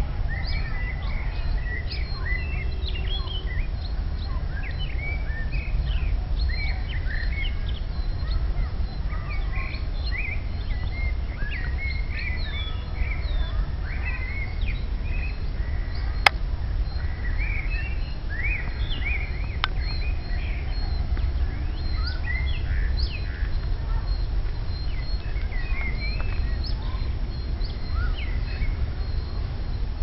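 Several songbirds chirping and singing, short high calls coming thick and fast, over a steady low rumble. A sharp click about sixteen seconds in.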